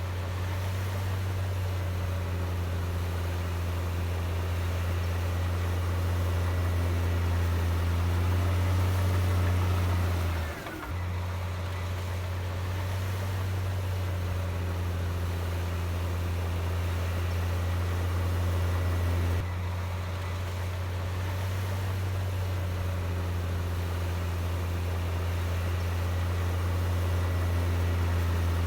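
Heavy diesel engine running steadily with a deep, even drone, briefly dipping about ten seconds in and settling slightly lower about twenty seconds in.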